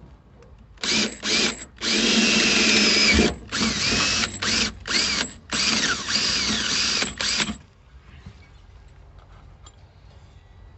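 Electric drill with a larger bit enlarging a pop-rivet hole in the truck's sheet metal, run in a series of short on-off bursts, its motor pitch rising and falling, stopping a few seconds before the end.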